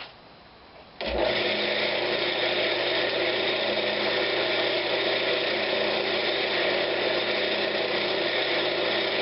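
Woodturning lathe switched on about a second in and running steadily at speed with a constant motor hum, spinning the blank without cutting.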